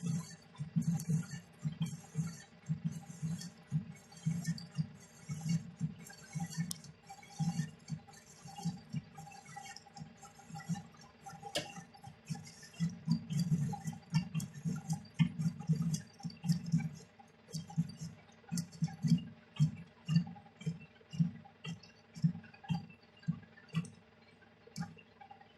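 Lathe cutting tool working through the weld of a welded-in steel part on a hydraulic cylinder. It makes a low pulsing about twice a second, with a fine high crackle over it.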